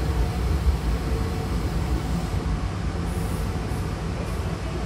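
Steady low rumble of a Hankyu Railway train running, heard from inside the car beside its closed doors, slowly getting a little quieter.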